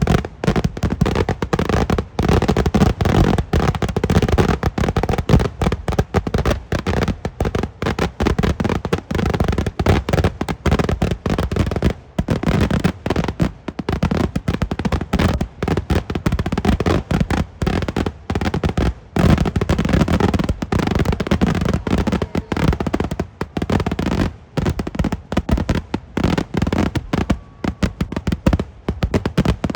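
Kerala temple fireworks (vedikkettu): a dense, continuous barrage of firecracker explosions, many bangs every second, with a few momentary lulls.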